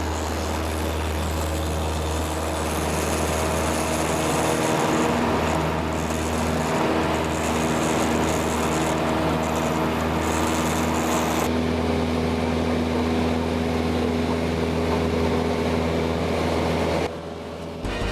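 Cessna 172's piston engine running steadily after start-up, with an even drone and a strong low hum. The sound changes and drops in level about a second before the end.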